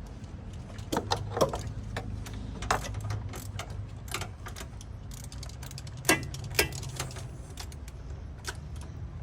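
Irregular metallic clinks and knocks of hand tools, bolts and parts being handled during engine-removal work, over a low steady hum. The louder knocks come about a second and a half in and twice around six seconds in.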